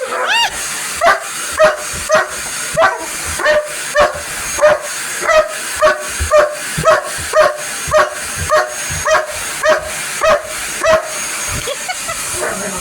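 German shepherd barking at a vacuum cleaner in a long, even run of about twenty barks, nearly two a second, stopping shortly before the end.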